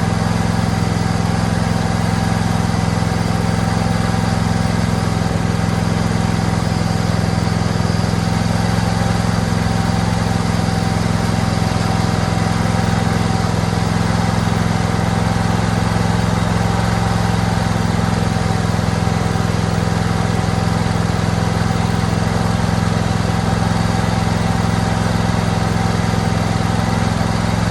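Husqvarna 2246 riding mower's engine running steadily at constant speed, with no change in pitch.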